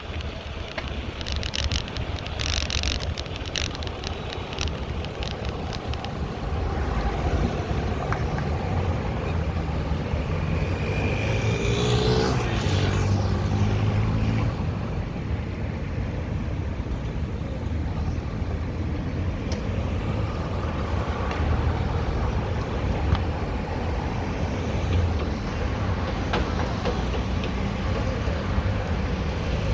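City road traffic heard from a bicycle: a steady rumble of passing cars and buses. One vehicle passes close about halfway through, its engine swelling and then fading. A few sharp clicks sound in the first three seconds.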